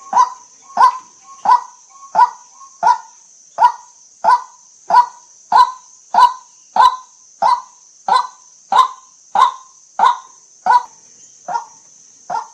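White-breasted waterhen giving its monotonous 'kwak' call over and over at an even pace, about three calls every two seconds, with a steady high-pitched hiss behind it.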